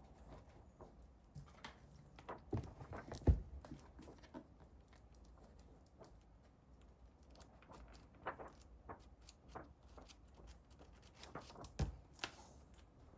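Faint, scattered handling sounds: light clicks, taps and rustling, with a couple of sharper knocks about three seconds in and near the end.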